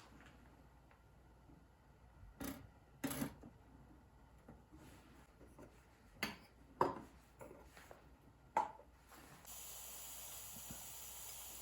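Light clinks and knocks of thin titanium camp-stove parts being handled, about six in all, spread irregularly. Then a steady hiss starts suddenly near the end.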